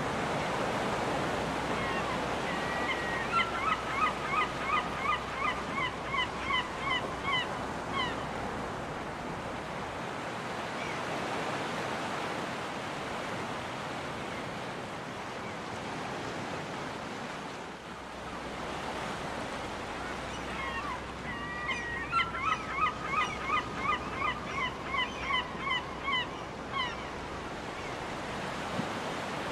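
Ocean waves breaking on a beach in a steady wash, with a gull calling twice: each time a run of about a dozen quick, rhythmic calls lasting about six seconds.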